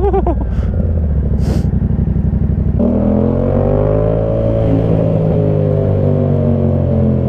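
Yamaha MT-07's parallel-twin engine running through an SC Project Conic 2-into-1 exhaust with the baffle removed, on the move. It is low and rumbling at first; about three seconds in the note changes to a higher tone that eases slowly down.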